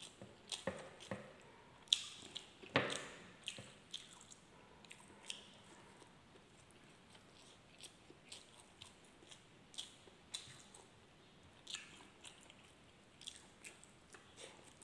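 Faint close-up eating sounds: chewing and wet mouth noises with scattered soft clicks as a person eats rice and milkfish sisig by hand. The clicks are loudest and most frequent in the first few seconds and sparse in the middle.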